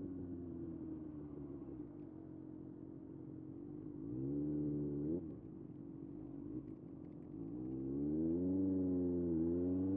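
Kawasaki ZX-6R inline-four engine: revs fall away over the first few seconds, rise briefly about four seconds in and drop off again, then climb steadily from about seven and a half seconds, with a short dip in revs near the end before rising again.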